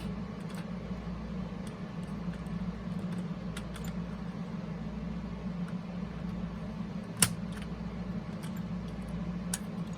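Scattered light clicks and taps of a small plastic boombox being handled, with one sharper click about seven seconds in, over a steady low hum.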